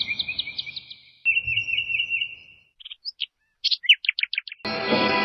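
Songbirds chirping: two quick trills of rapidly repeated high notes, then a few scattered separate chirps. Music comes in near the end.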